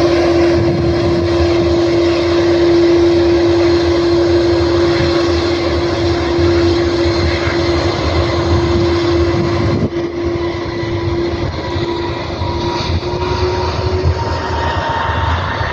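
Airbus A330 jet engines running at taxi power: a steady whine over a low rumble. Partway through the pitch content shifts, the lower tone fading and a higher tone coming in.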